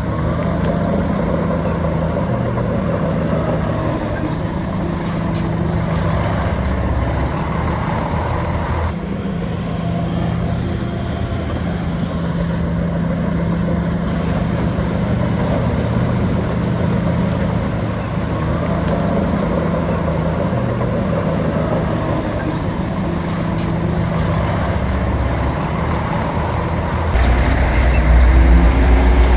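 A bulldozer's diesel engine running steadily. Near the end it gets louder and rises in pitch as it revs up under load.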